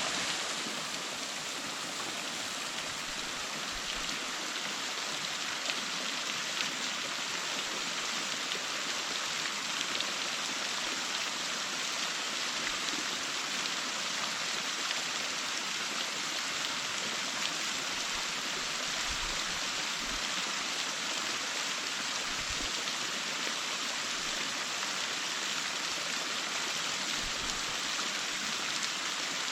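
Waterfall: falling water rushing and splashing in a steady, even hiss.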